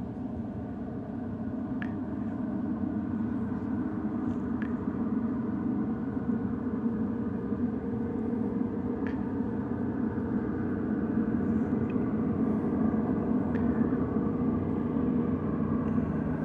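Firefighting airplane's engine drone, a steady hum that grows slowly louder as the plane approaches.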